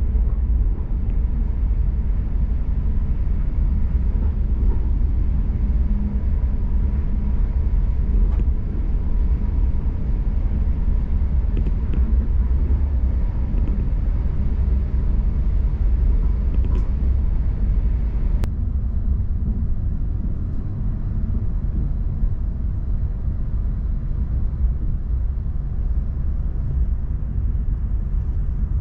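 Passenger train running, heard from inside the carriage: a steady low rumble with a few faint clicks. A thin steady whine cuts off with a click about two-thirds of the way through, and the upper hiss drops away.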